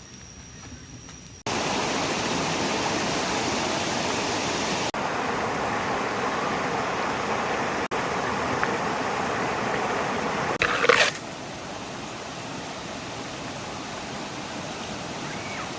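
Stream water rushing as a steady hiss, in sections cut off abruptly a few times. The first second and a half is quieter, with a faint steady high whine. A brief loud burst comes about eleven seconds in, after which the rushing is softer.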